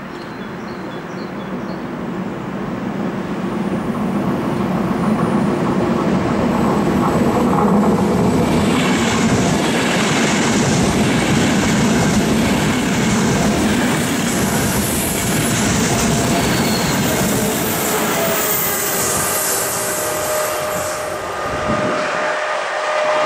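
Locomotive-hauled Intercity passenger train passing close by: the rumble grows over the first few seconds, then the wheels clatter over the rail joints as the coaches go by. About 22 seconds in the rumble drops away as the train recedes, leaving a thin, steady squeal.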